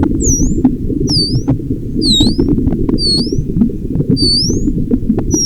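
A small animal's short, high-pitched squeaks, about seven of them, each dipping and then rising in pitch, over a steady low rumbling noise.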